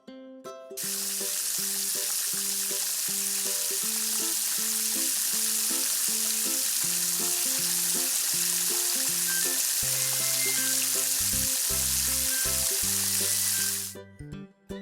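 A steady hissing spray sound effect, starting about a second in and cutting off suddenly near the end, over a light plucked-note melody in the background music.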